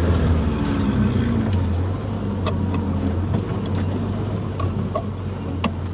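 Suzuki Jimny engine running at low revs, its pitch sliding in the first couple of seconds and then holding steady. Scattered clicks and knocks are heard over the last few seconds.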